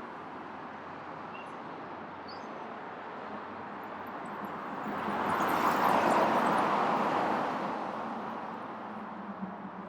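Steady city traffic noise, with one vehicle passing close by. Its noise swells from about four seconds in, peaks around six seconds and fades away by eight seconds.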